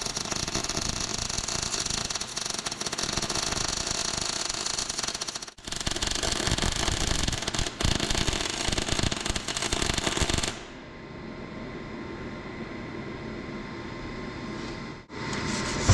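Welding arc crackling as a steel tie-down hook is welded to a truck bed: two long beads, the first about five and a half seconds, then after a brief pause another of about five seconds, followed by a quieter steady hiss.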